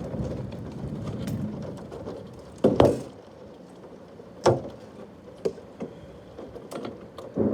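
Steady rain noise, then a sharp clunk about three seconds in after which the rain sounds much quieter, followed by several lighter knocks and clatters.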